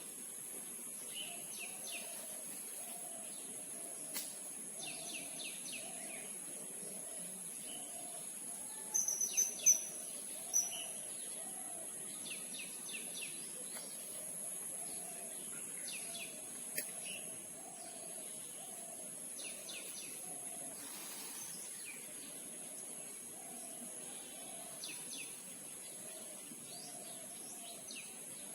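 Wild birds chirping and calling over a steady, high-pitched insect drone, with a few sharp clicks about nine to ten seconds in.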